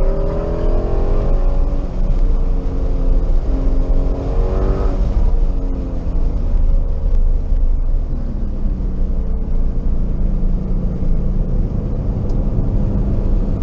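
Car engine heard from inside the cabin while lapping a race track, its pitch climbing under acceleration several times and dropping back about five seconds in, over steady road and wind noise.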